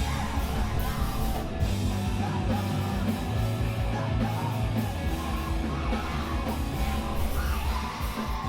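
Live screamo band playing loud, distorted rock with screamed vocals over guitars, bass and drums; the full band drops away right at the end.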